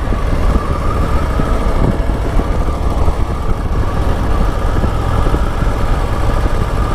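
Harley-Davidson V-twin motorcycle engine running steadily, with a low rumble and no revving.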